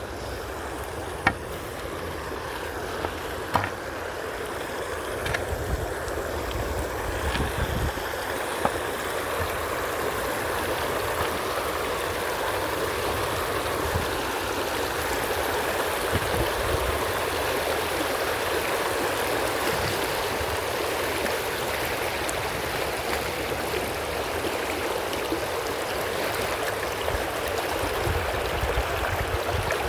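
Creek water flowing over rocks, a steady rushing that grows louder over the first ten seconds or so and then holds. A few sharp clicks stand out in the first several seconds.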